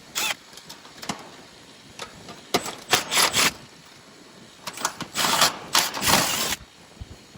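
Cordless drill-driver run in about half a dozen short bursts while the contactor is taken out of the condenser's electrical panel.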